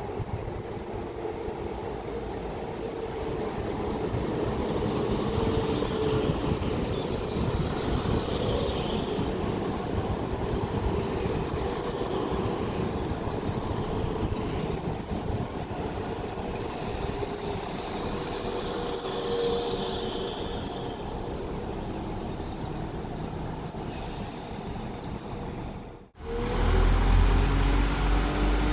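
A train running past on the line: a heavy, rough rumble of wheels on rail with faint engine tones over it. About 26 seconds in it cuts off suddenly and is replaced by a louder diesel engine running with a steady low drone.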